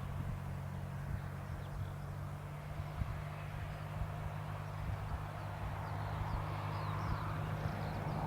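Cessna 172P light aircraft's four-cylinder piston engine and propeller droning steadily at a distance, growing slightly louder in the second half. Small bird chirps come in over it from about halfway.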